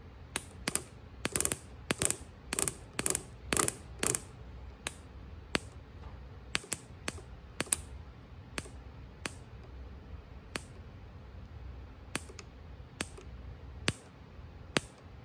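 Sharp snaps of ignition spark from the coil, each fired as the new breaker points in the hand-turned distributor break open. The snaps come unevenly, several a second and loudest at first, then slow to about one a second.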